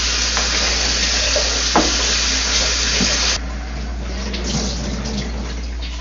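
Water running steadily from a tap, shut off suddenly about three seconds in, with a light knock shortly before.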